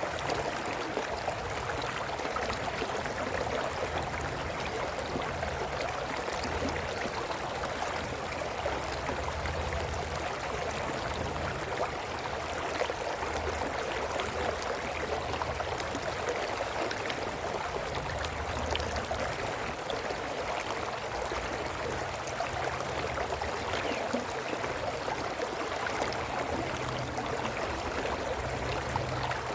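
Small brook babbling steadily over rocks: an even, unbroken rush of flowing water.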